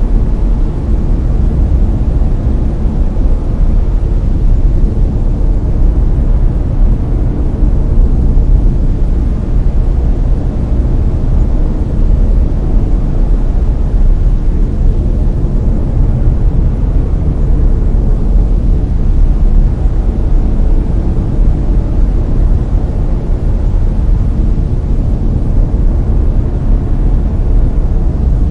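Steady, loud brown noise: an even, deep rumbling hiss, strongest in the bass and fading toward the treble, with no changes.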